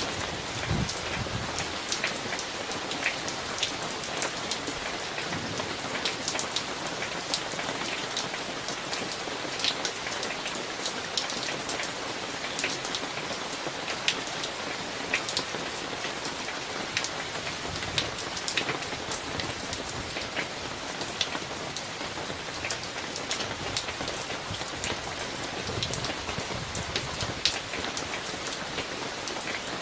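Steady summer thunderstorm rain, with many individual drops ticking sharply on a nearby surface.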